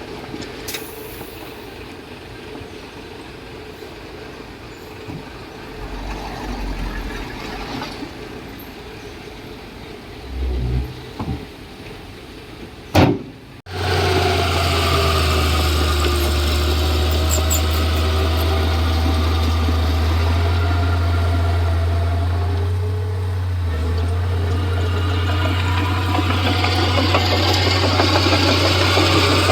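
Heavy diesel engine of a Komatsu D31P bulldozer running, with a few low knocks in the quieter first half. About halfway through it switches abruptly to a loud, steady low drone.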